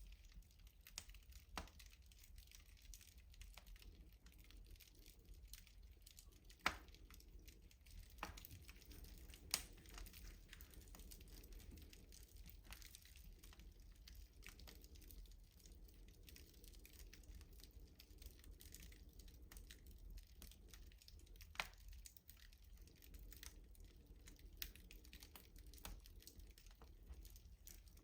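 Wood fire crackling in a rustic wood-burning stove: a steady scatter of faint small snaps and ticks, with three louder pops standing out.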